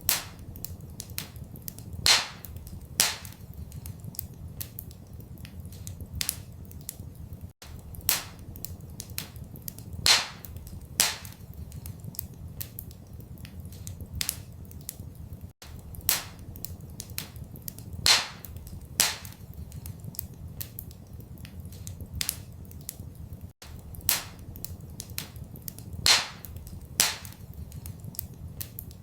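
Wood fire crackling in a fireplace: sharp pops and snaps, the loudest coming in pairs about a second apart, over a low steady rumble. The same pattern of pops repeats about every eight seconds.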